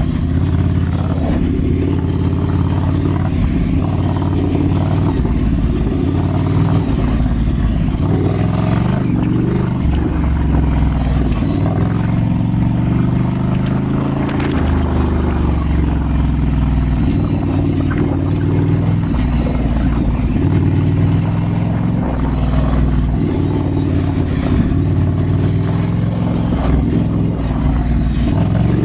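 Ducati Scrambler's L-twin engine running as the motorcycle is ridden, its pitch rising and falling with the throttle several times.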